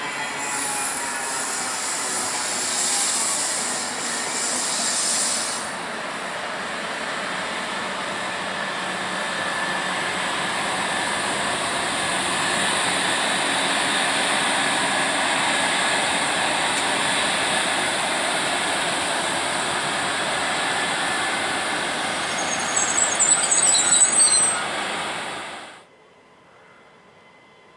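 An SNCB class 13 electric locomotive and its double-deck coaches passing close by: a steady rumble of wheels on rail, with high wheel squeal in the first few seconds and again in short sharp squeals near the end. The sound then cuts off abruptly to a faint background.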